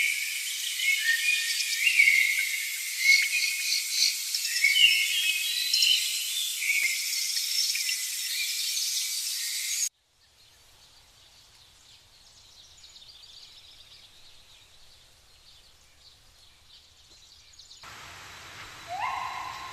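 A dense chorus of many birds chirping and calling over one another, with insects. About halfway through it cuts off suddenly to a much quieter forest with only faint scattered chirps. Near the end another cut brings a hiss and a short rising call.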